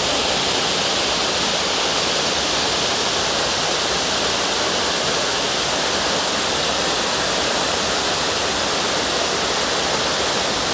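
Waterfall pouring into a plunge pool close by: a loud, steady rush of falling water.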